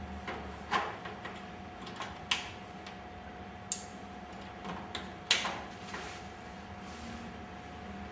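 Injection-moulded plastic parts of a display stand being handled and fitted: scattered clicks and knocks as a side wing is set in place and snap plugs are pushed home, the loudest knock about five seconds in. A faint steady hum lies underneath.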